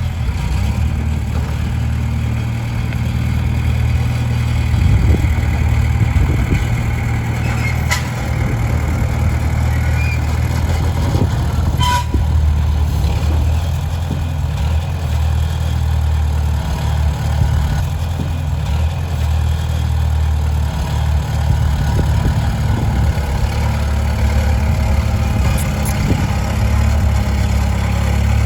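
Komatsu D20P bulldozer's diesel engine running steadily at work, with a couple of brief sharp clicks about a third of the way in.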